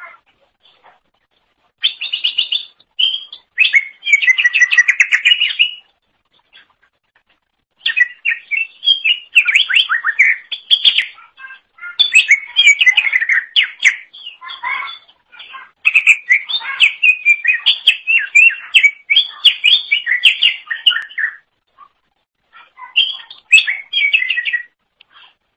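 Green leafbird (cucak ijo) singing in long bursts of fast, varied chirps and twitters, with two short pauses, about six seconds in and again near the end.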